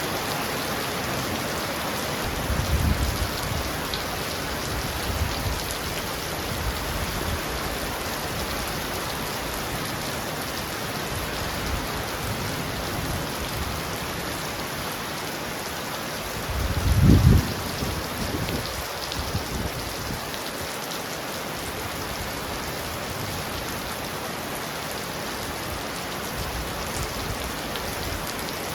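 Heavy rain pounding steadily on a roof. Two short low rumbles rise out of it, one about three seconds in and a louder one near the middle.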